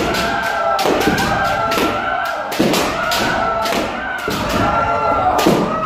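Kendo practice: several practitioners' drawn-out kiai shouts overlapping, with sharp cracks of bamboo shinai striking armour and stamping footwork several times a second.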